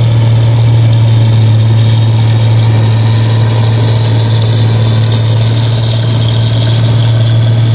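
Rice combine harvester's engine running steadily and loud, an even low drone that holds one pitch throughout.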